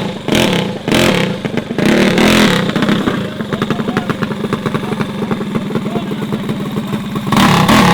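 Minibike engine revving in surges, then running steadily with a fast, even pulse, and revving up again near the end.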